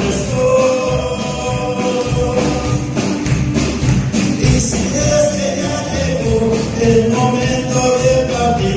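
Live gospel music in Spanish: a tambourine jingling steadily on the beat under a sung melody of long held notes.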